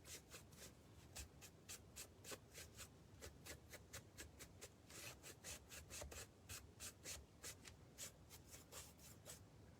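Foam brush dry-brushing white paint onto a small stick-covered birdhouse: faint, quick rubbing strokes, about four a second.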